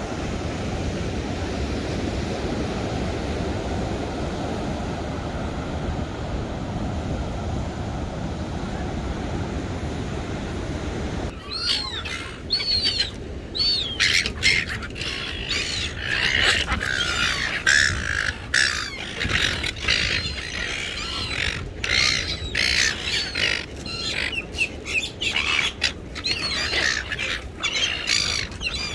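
Steady rushing wind noise for about eleven seconds, then an abrupt change to a flock of gulls calling and squawking over one another.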